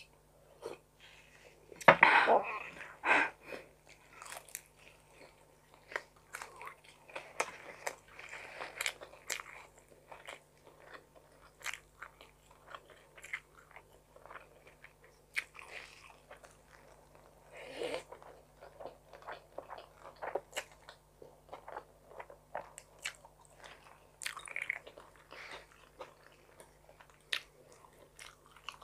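Close-miked eating of tuna carbonara spaghetti: irregular chewing and mouth sounds, with short clicks of a fork against a glass plate, and a louder burst about two seconds in.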